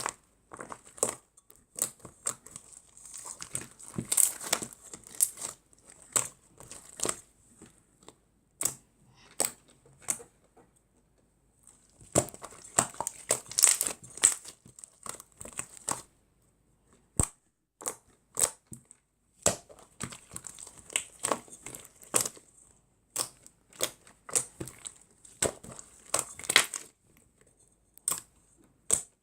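Homemade Elmer's glue slime being worked by hand, giving irregular sticky crackles and clicks in bursts that stop and start.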